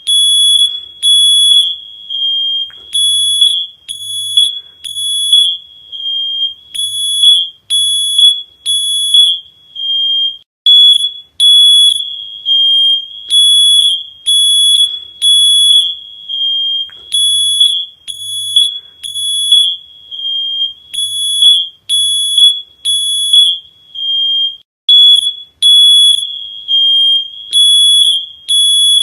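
Electronic alarm beeping: a loud, high-pitched tone repeating about once a second, in runs broken by short gaps.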